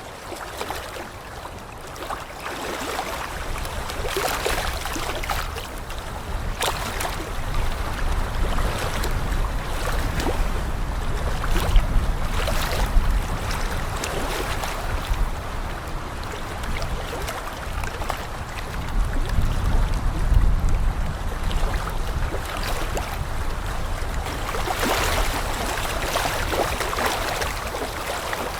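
Outdoor wind noise: gusts rumbling on the microphone over a steady rushing hiss, swelling a couple of times.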